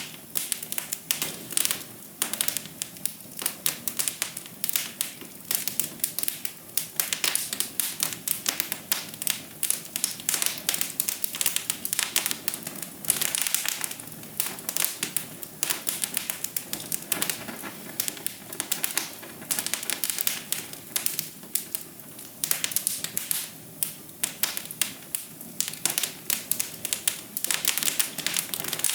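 Wood fire crackling: a dense, irregular run of quick snaps and pops, several a second, over a soft steady hiss.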